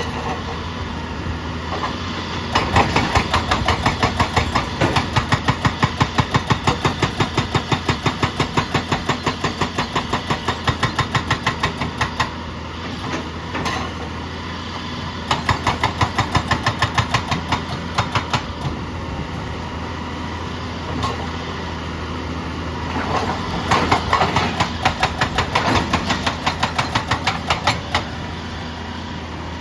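Excavator-mounted hydraulic rock breaker hammering rock in runs of rapid, evenly spaced blows, several a second, with pauses between the runs. The machine's diesel engine drones steadily underneath.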